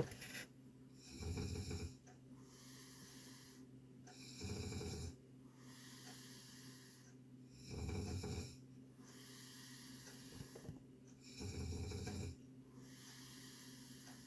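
A person snoring: four snores about three and a half seconds apart, over a steady low hum.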